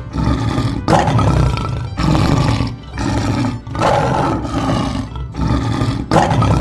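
A lion's roar sound effect, repeated about once a second as a string of rough, growling roars.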